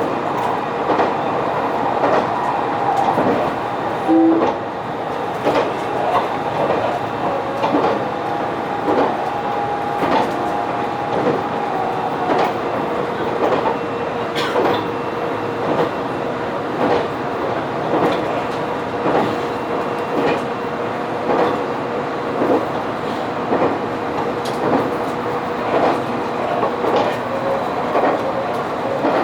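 Train running along the line, its wheels clicking over rail joints in a steady rhythm, with a steady running hum under the clicks.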